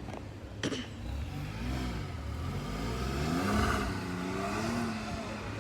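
Sports car engine accelerating past, its note rising in pitch in pulls and loudest about three and a half seconds in, then settling to a steadier, slowly falling note as it moves away. A sharp click sounds under a second in.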